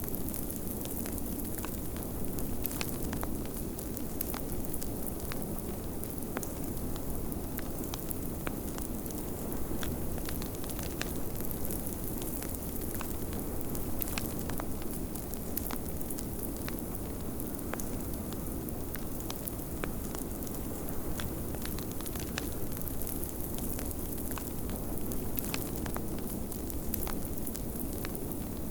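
Wood fire crackling in a fireplace, with frequent sharp pops and snaps, over a steady rush of snowstorm wind.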